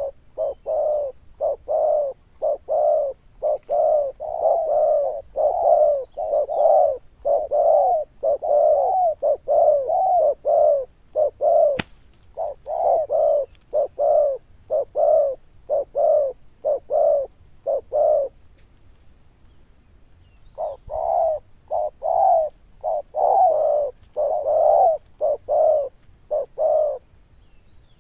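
Spotted dove (cu gáy) cooing: long runs of short, low coos, about two a second, breaking off for a couple of seconds past the middle and then resuming. A single sharp click sounds near the middle.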